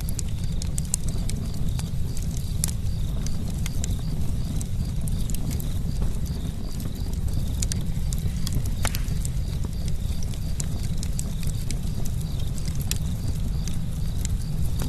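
Campfire crackling: irregular sharp pops and snaps of burning wood, several a second, over a steady low rumble.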